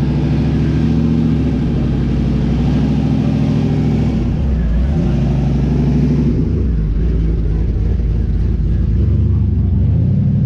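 Car engine running loudly, its pitch rising and falling a few times as the revs go up and down, lowest near the end before climbing again.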